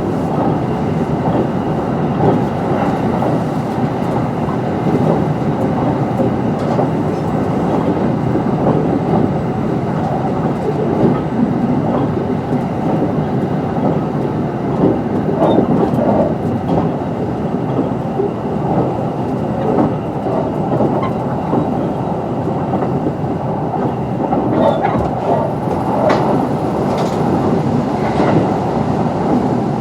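Kintetsu 22600 series limited express electric train running at speed, heard inside the passenger car: a steady rumble of wheels on rail with scattered short rail clicks and a faint steady whine.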